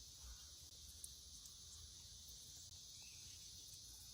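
Faint, steady high-pitched insect chorus, with near silence otherwise.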